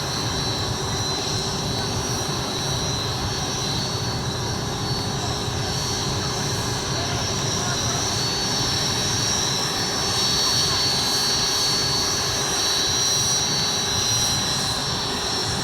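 Aircraft engines running steadily close by, a loud even rush with a high whine held through it, getting a little louder about two-thirds of the way through.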